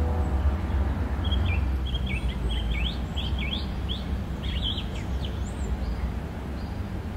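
Outdoor town ambience: a steady low rumble, with a small bird chirping a rapid series of short notes from about a second in until a little past the middle.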